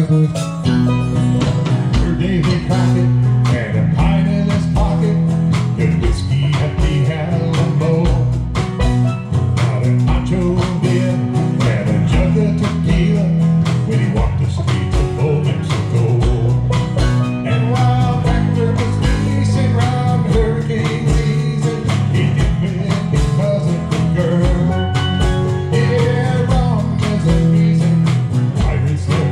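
Live band playing a mid-tempo country song: guitar, steel drums, bass guitar and a drum kit, with a steady kick-drum beat under the bass line.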